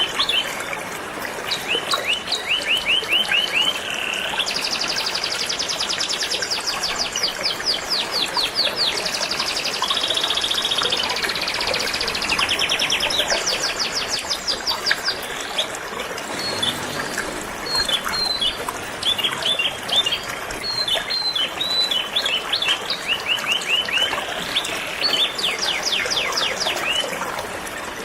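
Canary singing in long, fast trills of rapidly repeated notes, phrase after phrase, over the steady rush of a flowing river.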